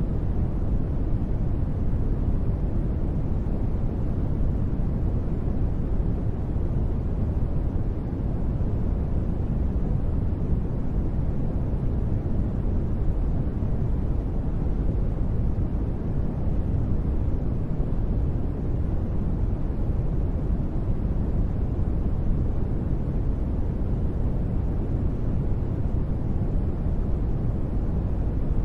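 Continuous sleep noise, steady and unchanging, deep and dark in colour: most of its energy is low, with little hiss on top. There are no sudden sounds.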